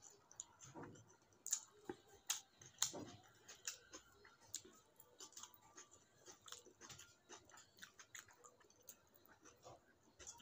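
A person chewing mouthfuls of rice and fish curry eaten by hand, with fingers mixing the rice on the plate. Quick sharp clicks and smacks come through, most often and loudest in the first three seconds.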